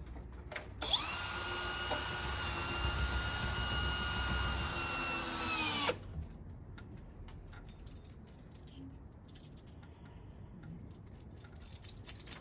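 Cordless drill driving a self-tapping screw into garage door weather stripping: a steady whine for about five seconds that dips slightly just before it stops. The screw is driven too deep, with too much pressure on the seal. Faint clicks and jingles follow.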